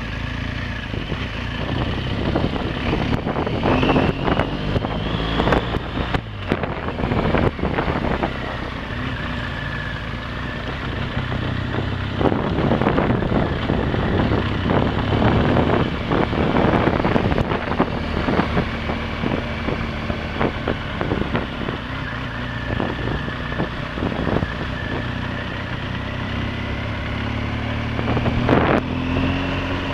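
Motorcycle engine running under way, its pitch rising and falling with the throttle, with wind buffeting the microphone.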